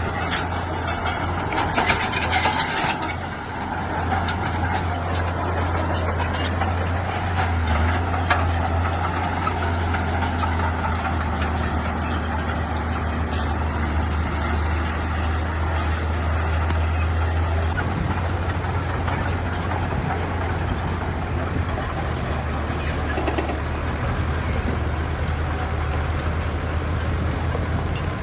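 Heavy diesel construction machinery running steadily with a deep, even engine drone. There is a brief louder rush of noise about two seconds in, along with scattered clicks and knocks.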